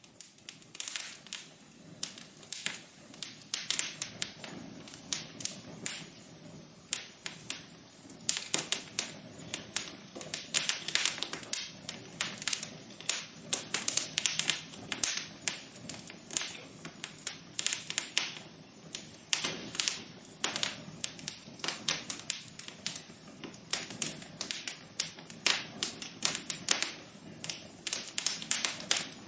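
Wood fire burning in a fireplace, crackling steadily with dense, irregular sharp pops and snaps over a low, steady hiss.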